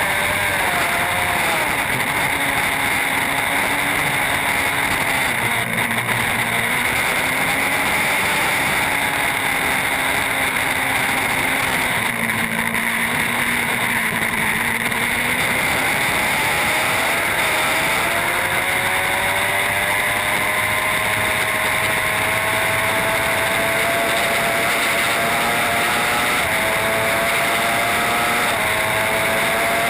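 Racing superbike engine running hard under a constant rush of wind noise. Its pitch dips early and again around the middle, then climbs steadily through the second half with a couple of small steps.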